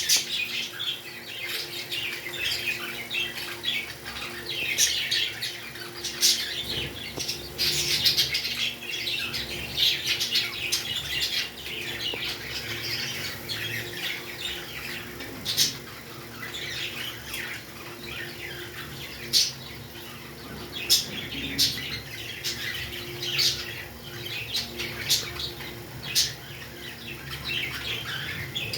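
Pet parrots chirping and squawking in a dense, continuous stream of short high calls, with sharp clicks scattered through, over a faint steady hum.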